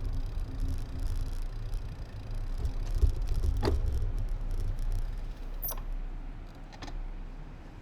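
Low wind and road rumble picked up by an action camera while riding, with a few sharp clicks and rattles, and the rumble easing off near the end.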